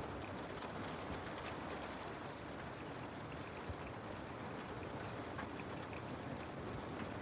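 Steady rain falling, with the scattered ticks of individual drops on a surface.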